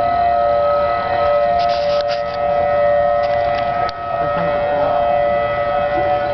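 Outdoor tornado warning siren sounding a steady two-note tone.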